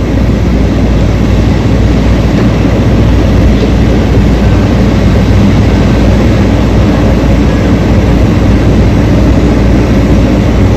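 Heavy diesel mining machinery running at a steady, loud drone, with a strong low engine hum and no distinct knocks or changes.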